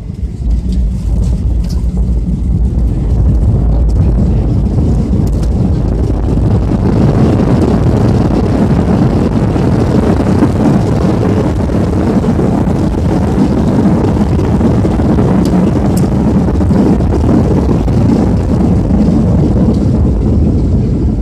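Airliner on landing, heard from inside the cabin: a loud steady roar that swells about four seconds in and holds.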